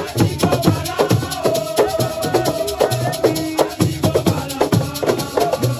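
Assiko music: dense, fast drumming and shaker rattles under wavering voices singing.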